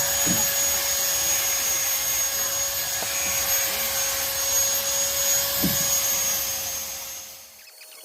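An electric power tool's motor running steadily with a high whine, then winding down and stopping about seven seconds in.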